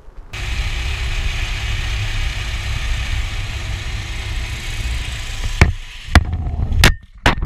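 Dirt bike engine running steadily under a loud rush of wind noise, then several sharp, loud knocks and thuds near the end, about half a second apart.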